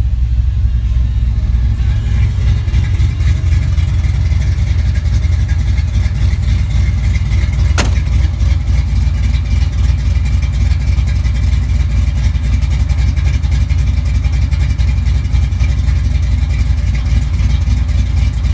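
1993 Ford Lightning's cammed 351 Windsor V8 running steadily with a deep, heavy low end. There is a single sharp click about eight seconds in.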